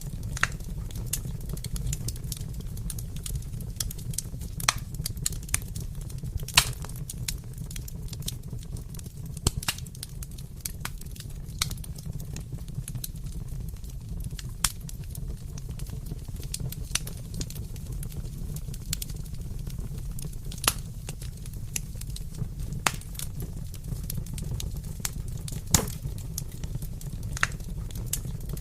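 Wood fire crackling in a fireplace: a steady low rumble with irregular sharp pops and snaps, a few of them loud.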